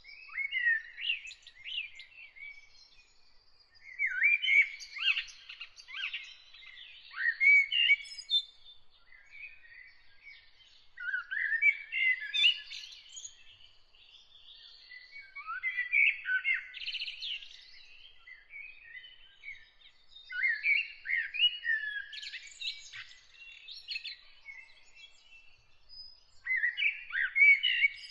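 Songbird singing in repeated warbling phrases of quick, varied notes. Each phrase lasts a few seconds and is separated by short pauses.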